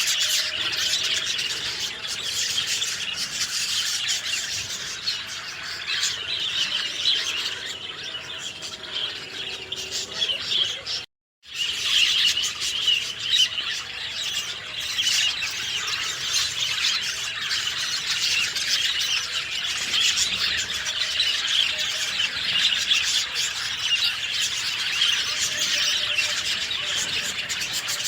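A dense chorus of many small songbirds chirping and twittering continuously, with high, rapid calls overlapping one another. It breaks off in a brief moment of complete silence about eleven seconds in, then resumes.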